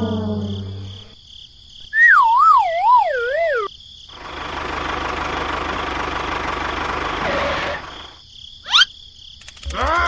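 A string of cartoon sound effects: a brass note trailing off at the start, a warbling whistle that wobbles downward, about three and a half seconds of steady rushing noise, a quick rising zip, and a springy boing near the end.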